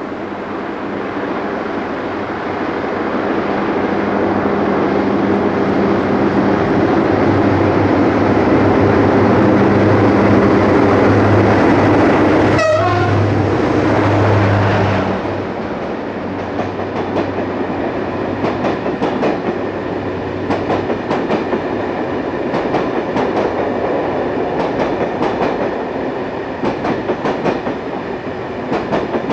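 Diesel-hauled passenger train passing: the locomotive's engine hum builds to its loudest and drops away about 15 seconds in. The coaches then roll by with a rhythmic clickety-clack of wheels over the rail joints.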